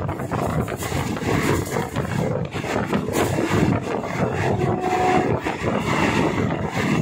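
Passenger train running along the track, heard from inside a carriage: a continuous rumble of wheels on rails mixed with wind noise, uneven in level. A brief faint steady tone sounds about five seconds in.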